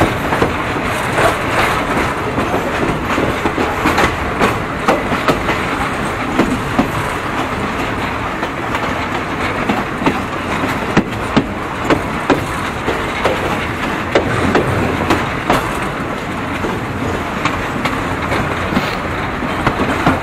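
Thai passenger train running along the track, a steady rumble with sharp clicks of the wheels over rail joints at irregular intervals, heard from an open window of the moving coach.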